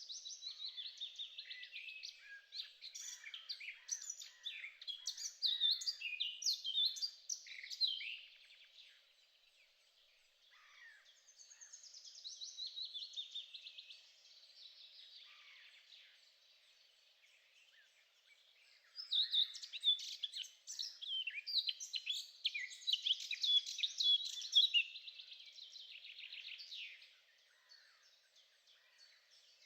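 A songbird singing long, rapid, varied phrases of high chirps and trills in three bouts, with short quiet gaps between them.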